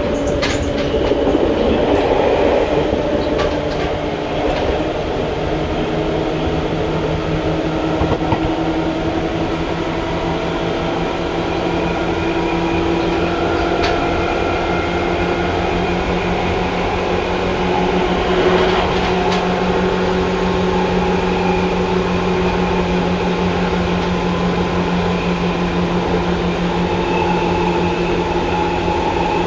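Seibu 2000 series electric train heard from inside the car while running: field-chopper-controlled traction motors whine in several steady tones over the low rumble of wheels on rail. The whine climbs slowly in pitch as the train gathers speed, with a few sharp clicks along the way.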